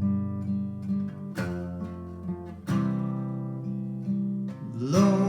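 Acoustic guitar strumming slow chords, each left to ring for a second or two before the next strum, three strums in all. A singing voice comes back in right at the end.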